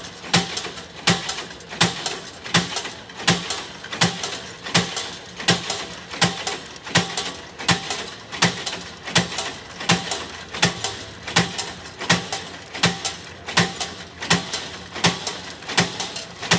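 Steady rhythmic knocking, a sharp knock a little more than once a second at an even pace, like a tool or machine striking repeatedly.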